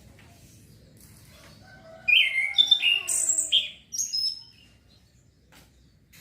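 Young male orange-headed thrush practising its song: one quick phrase of varied whistled notes, starting about two seconds in and lasting roughly two and a half seconds.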